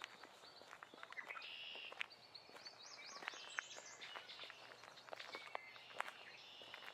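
Songbirds singing, with a run of quick rising notes about three seconds in, over soft footsteps on the forest floor.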